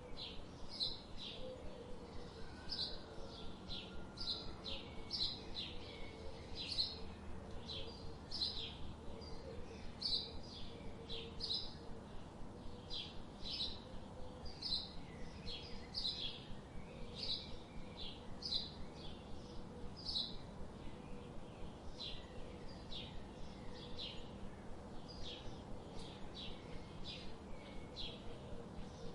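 Songbirds chirping, short high calls repeating about one or two a second, over the steady hiss of a flowing river.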